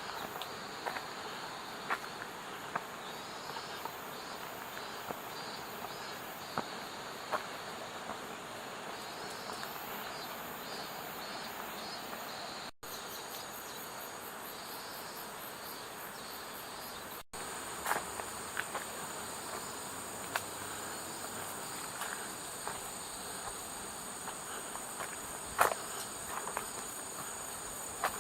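Insects chirring steadily in the forest, a pulsing high-pitched chorus. From about two-thirds of the way in, a steady high-pitched trill takes over. A few sharp ticks sound throughout, the loudest near the end.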